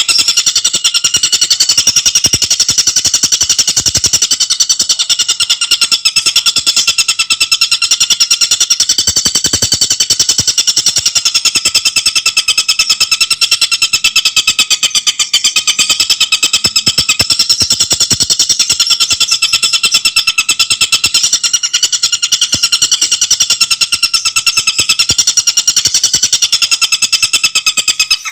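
Tengkek buto bird giving a loud, fast, unbroken chattering song, its notes repeated in a rapid rattle.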